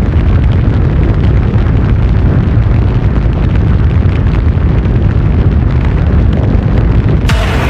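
Loud, steady low rumbling noise that changes abruptly near the end to a brighter, hissier sound.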